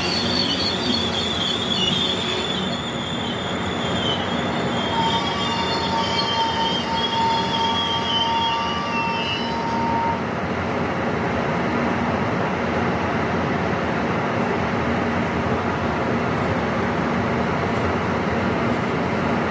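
KORAIL E-train excursion train rolling slowly past along a station platform, its wheels squealing in high, wavering tones that stop about halfway through, over a steady low rumble that carries on to the end.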